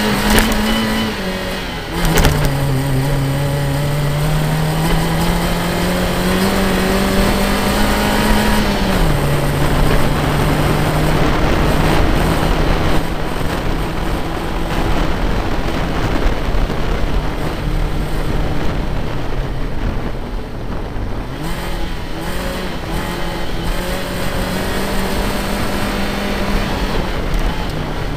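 Nissan Micra rally car's engine driven hard, its note climbing and then dropping sharply at gear changes about two and nine seconds in. It holds a steady pitch for a long stretch, then climbs again near the end, over a constant rush of road and wind noise.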